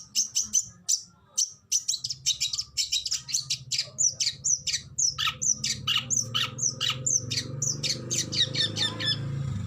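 Oriental magpie-robin (kacer) singing a fast run of short, sharp high notes, several a second. About halfway through come downward-sweeping whistles. A low steady hum runs underneath.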